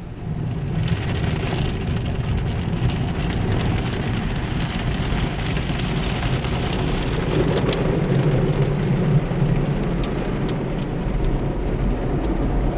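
Automatic car wash spraying water against a car, a dense steady hiss and patter over a low mechanical rumble, growing louder about half a second in.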